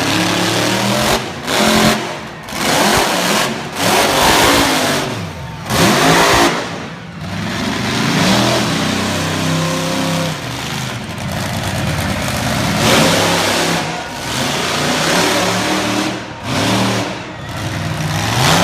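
Monster truck engine revving hard in repeated bursts, the throttle opened and shut every second or two, with the engine running between the surges.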